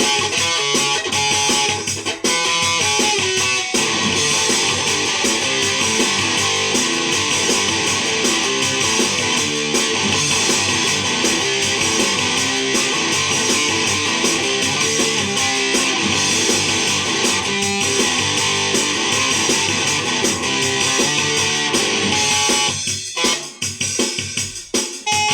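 A band playing a demo: strummed electric guitar over a drum kit, dense and steady for most of the stretch, then breaking up into choppier, stop-start playing near the end.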